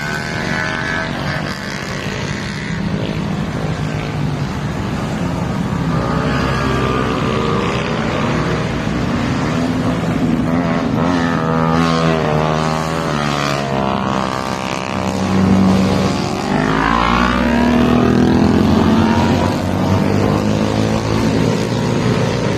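Motorcycle engine running while riding, its pitch rising and falling with the throttle, most markedly about halfway through, over a steady rush of wind and road noise.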